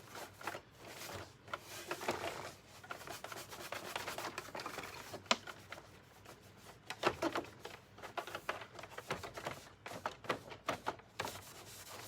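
Hands working on a vacuum cleaner's power cord and plastic parts: rubbing and rustling broken by many small clicks, with a sharper click about five seconds in and another around seven seconds.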